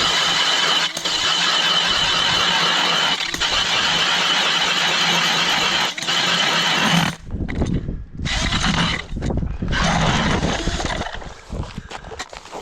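Powered ice auger drilling a hole through lake ice: a steady motor run with a fixed whine that cuts off about seven seconds in, then two short bursts of the auger.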